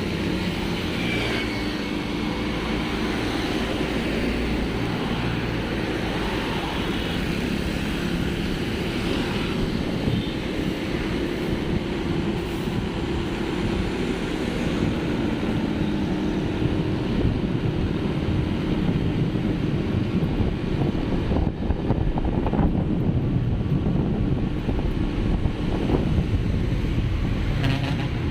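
Steady vehicle running with road noise and wind buffeting the microphone, at a fairly even level with gusts growing a little stronger in the second half.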